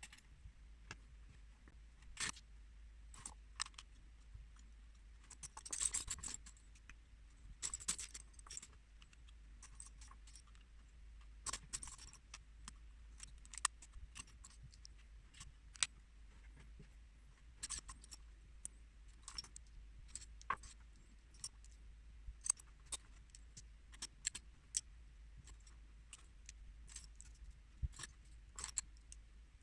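Small plastic building bricks clicking and rattling as they are handled and pressed together: irregular sharp clicks, with denser rattling about 6 and 8 seconds in.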